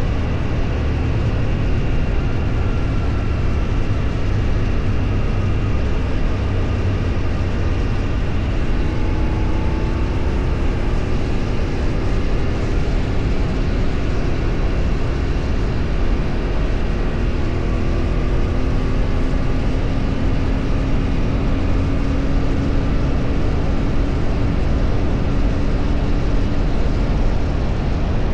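A vehicle's engine and road noise while driving: a loud, steady low rumble, with faint engine tones drifting slowly up and down in pitch.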